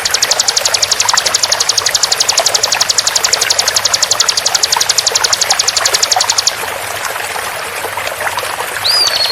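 Ciblek (bar-winged prinia) 'tembakan' song: a fast, even trill of sharp high notes over steadily running water. The trill stops about six and a half seconds in, leaving only the water. Near the end a short swooping whistle comes, and the trill starts again.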